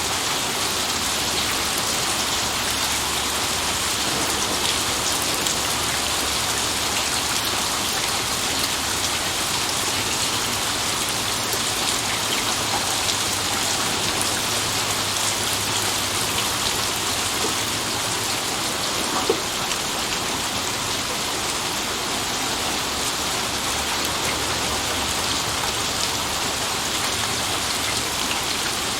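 Steady rain falling, an even hiss, with one sharp drop striking about two-thirds of the way through.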